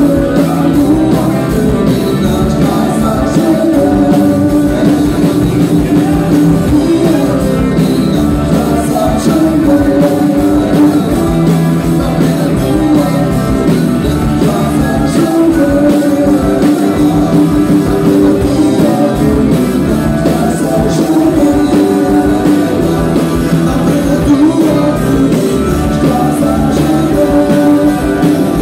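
A band playing loud, steady music with a singing voice and guitar.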